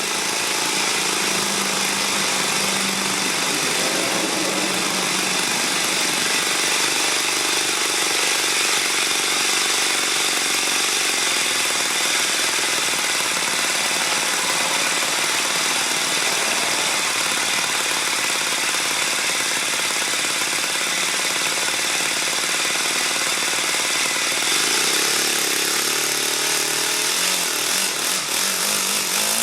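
Enya 80-4C single-cylinder four-stroke glow model engine running steadily at a constant speed, with a slight change in speed in the last few seconds.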